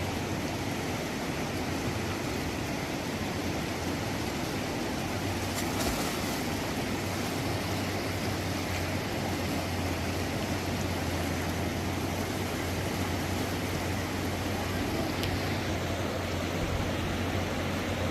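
Steady rushing noise with a low hum underneath that grows stronger about five seconds in.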